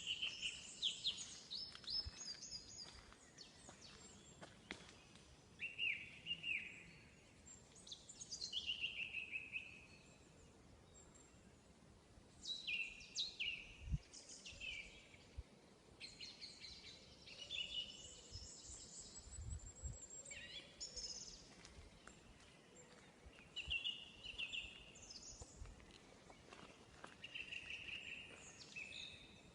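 Forest songbirds singing: short song phrases every few seconds, several stepping down in pitch, over a quiet woodland background.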